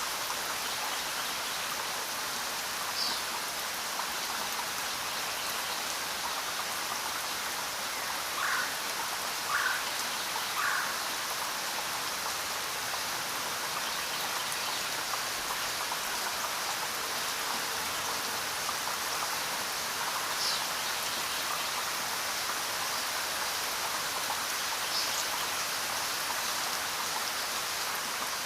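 Steady rainfall, an even hiss, with a few brief louder sounds standing out, three in quick succession about ten seconds in.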